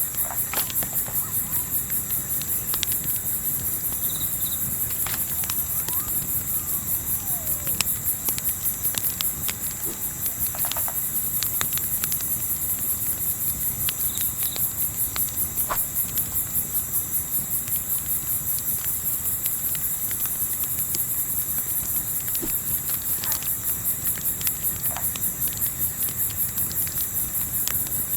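Crickets chirping steadily in an even, rapid pulse, about four a second, over a low, steady hiss. Scattered short crackles of a campfire run through it.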